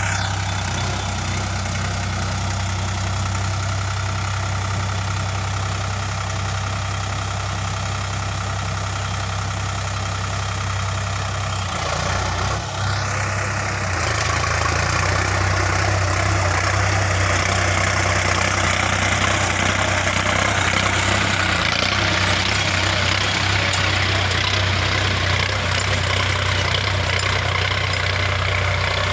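Sonalika DI 50 RX tractor's diesel engine running at a steady idle. About halfway through there is a brief break, after which it runs a little louder.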